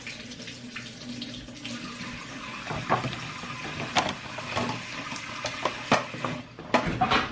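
Kitchen tap running steadily into the sink as strawberries are rinsed under it, with a few sharp knocks now and then.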